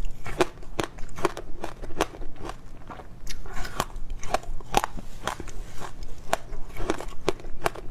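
Close-up crunching and crackling of frozen passion fruit pulp being bitten and chewed, sharp irregular crunches several times a second.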